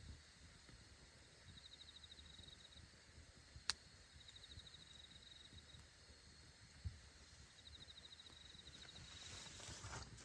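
Faint campfire crackle with one sharp pop a little over a third of the way in. An insect trills in three short bursts of rapid chirps.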